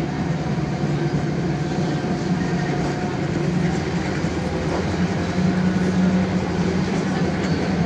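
Diesel passenger train running: a steady rumble of engine and wheels with a low drone that swells slightly about five and a half seconds in.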